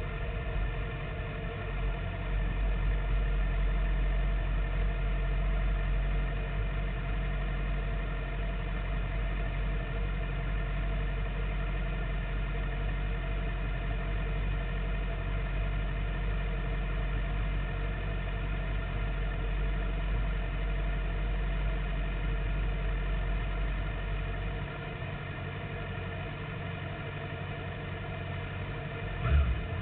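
Sport-bike engine idling steadily at an unchanging pitch; its deepest part drops away a little after about 24 seconds.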